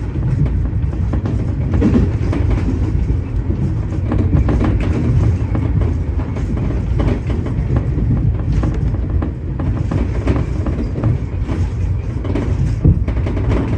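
Tobu 30000 series electric train running at speed, its wheels clattering over rail joints above a steady low rumble, heard from inside the front car.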